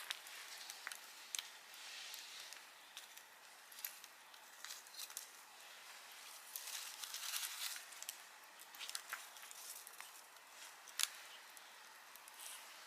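Wood campfire burning: a soft hiss with irregular crackles and pops, busiest about seven seconds in, and one sharp snap about eleven seconds in.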